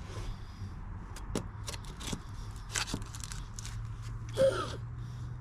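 Small hand saw worked in short, irregular strokes into dry deck wood, the teeth near the tip catching and ticking against the board, with a brief voice sound about four and a half seconds in.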